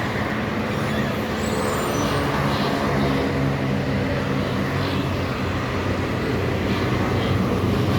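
Highway traffic with a heavy truck's engine running close by, a steady engine drone under road noise.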